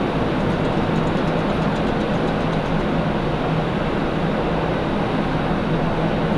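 Steady rushing noise of a ferry under way, with a constant low engine hum beneath it.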